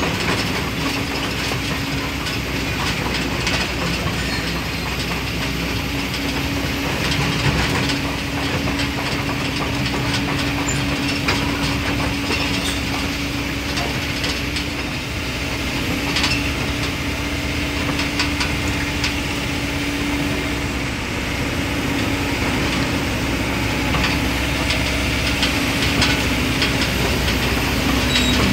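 Excavator's diesel engine running steadily under load, with a stream of clanks, knocks and gritty scraping from the machine and its bucket working in sand and stone.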